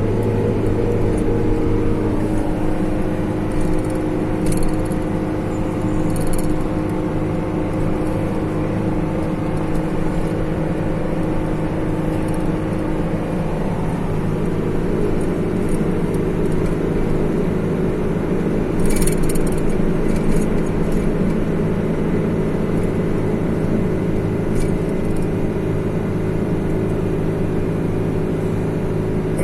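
A car running along the road: a steady engine hum with tyre and road noise, and a few brief clicks.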